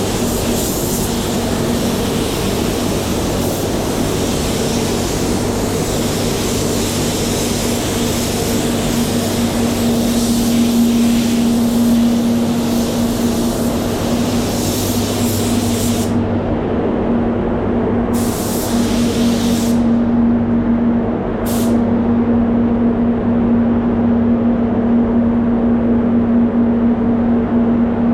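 Compressed-air spray gun hissing as epoxy primer is sprayed: steady for the first half, then stopping, with two short bursts later and the hiss resuming near the end. Under it runs a steady machine hum with a low tone.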